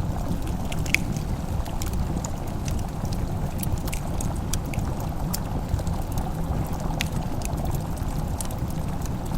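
Wood fire crackling, with scattered sharp pops and ticks over a steady low rumbling hiss.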